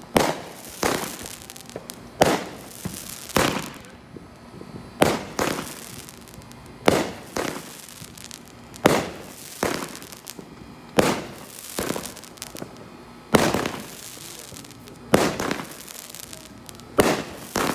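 Fireworks going off: about a dozen loud bangs, one to two seconds apart, each trailing off in a short echo.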